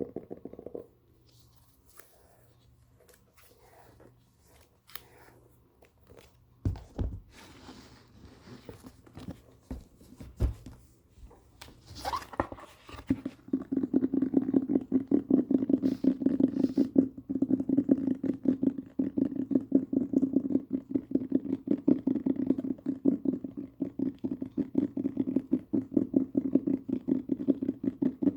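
A book being handled: scattered soft crinkles and clicks with a couple of dull thumps, then from about halfway a fast, steady patter of taps or scratches on the book.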